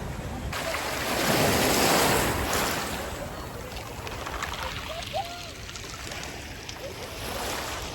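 A sea wave breaking and washing up the shore: a rush of surf that starts suddenly about half a second in, swells for a couple of seconds, then drains away into a softer steady wash.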